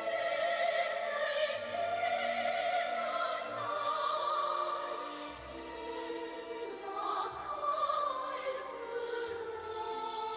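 Operatic singing with orchestral accompaniment: a voice holds long notes with vibrato over sustained strings.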